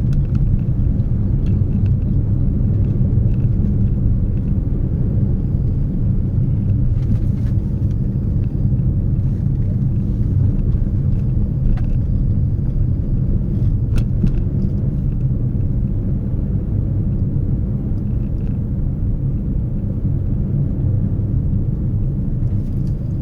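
Steady low rumble of a moving car, engine and road noise, with a few faint ticks.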